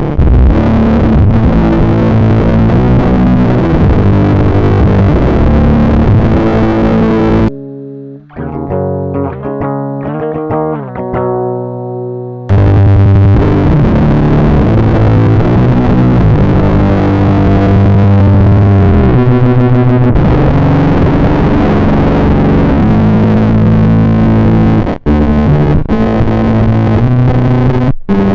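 Distorted electric guitar, recorded direct into a computer with no amp, playing heavy riffs. A quieter, muffled passage runs from about eight to twelve seconds in, then the full distorted sound comes back. It stops briefly twice near the end.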